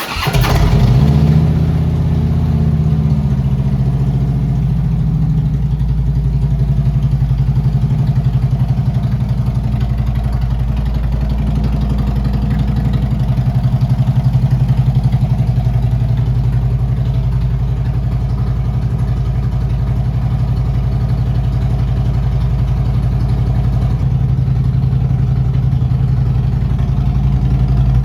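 2013 Harley-Davidson Ultra Limited's Twin Cam 103 V-twin firing up, running a little faster for the first couple of seconds, then settling into a steady idle.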